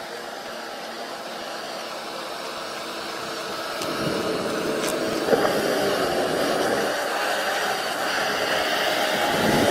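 Heavy machine's diesel engine running steadily, getting louder about four seconds in, with a single sharp knock about a second later.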